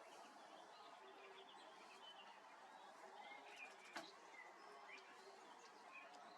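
Faint distant birdsong: scattered short chirps and calls over a quiet outdoor hush, with one soft click about four seconds in.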